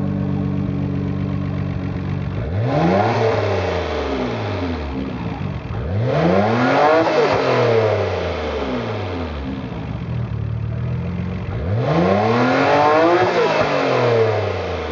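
Nissan Skyline GT-R R32's RB26DETT twin-turbo straight-six idling, then revved three times, the pitch climbing and falling back to idle each time.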